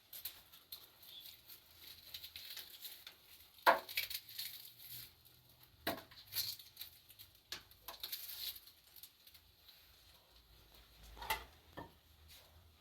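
A few separate light knocks and clinks, several seconds apart, over a faint hiss.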